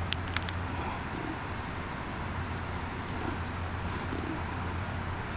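Steady low mechanical hum under a wash of outdoor background noise, with a few light clicks at the start.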